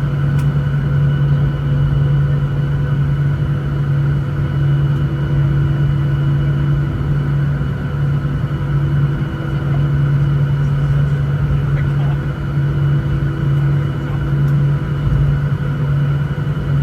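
Steady cabin noise of a Boeing 737-900ER on the ground at taxi, its CFM56-7B engines at idle: a low hum with several thin steady tones above it.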